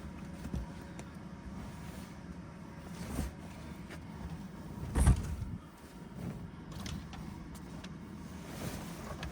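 Bedding being handled in a cramped van: soft rustling and knocks, with one loud thump about five seconds in and a smaller one about three seconds in, over a steady low hum.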